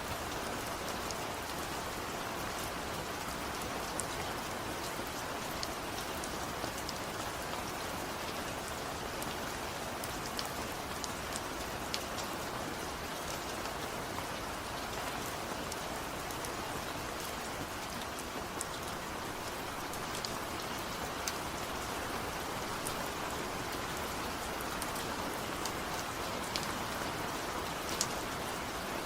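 Steady rain falling, with many individual drops ticking sharply against a surface.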